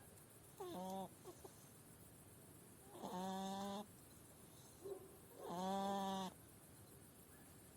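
Sick hedgehog's lament calls: three short, drawn-out pitched cries, the last the loudest, with faint small sounds between them. These are the sounds of a hedgehog that is ill.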